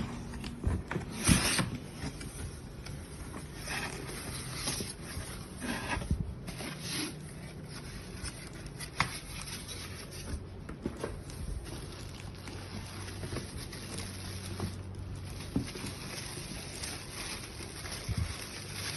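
Unboxing handling: packaging and plastic vacuum-cleaner parts rubbed, scraped and rustled, with frequent small clicks and knocks.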